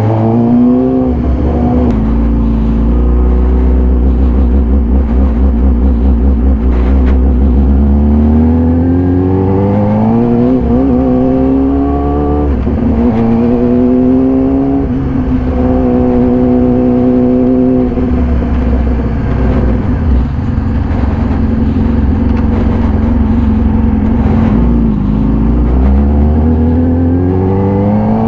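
2014 Yamaha YZF-R6's inline-four engine through an SC-Project full exhaust, ridden under varying throttle: its pitch climbs and drops back several times with the revs and quick-shifted gear changes, holding steady for stretches in between.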